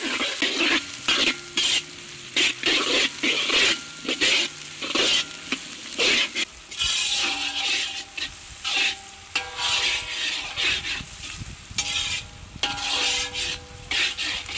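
Sliced onions, green chillies and curry leaves sizzling in hot oil in a large iron kadai, stirred and scraped with a long metal ladle in repeated strokes about twice a second.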